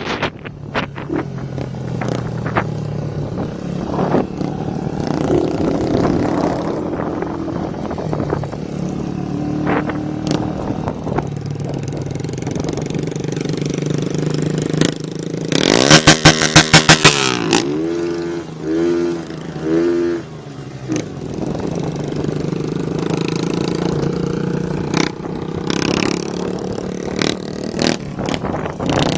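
Straight-piped motorcycle engines running on the road. About sixteen seconds in comes a loud, rapid stutter of exhaust pops from an engine bouncing off its rev limiter, followed by a few short revs that rise and fall.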